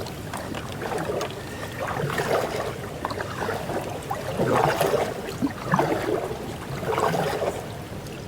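Canoe being paddled through a river thick with ice: swelling sounds of paddle strokes every second or two, with crackling and scraping of ice against the hull.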